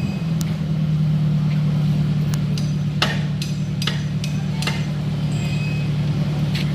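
Heavy diesel engine running at a steady pitch, with scattered sharp clicks and knocks over it.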